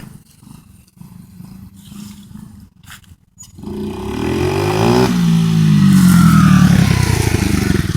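Coolster 125 cc dirt bike engine ticking over quietly, then revved hard about three and a half seconds in. The pitch climbs for a second and a half, then drops back and runs loud before easing toward idle.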